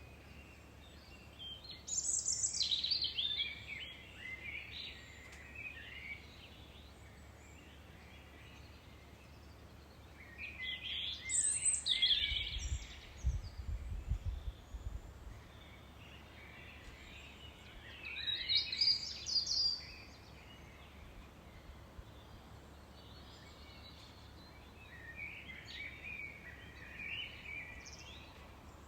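A songbird singing in short, high, warbling phrases of about two seconds, four times, with pauses of several seconds between them. A brief low rumble comes about halfway through.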